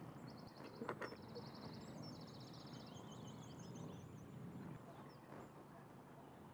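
Faint birds chirping and trilling in quiet outdoor ambience, with a soft tap or two about a second in.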